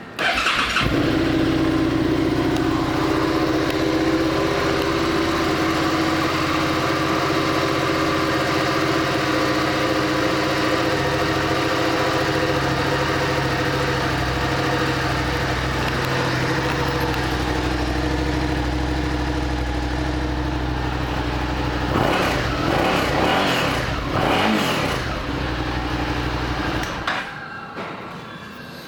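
2017 Suzuki SV650's 645 cc V-twin engine starting up and idling steadily. Near the end it is revved a few times in quick blips, then shut off.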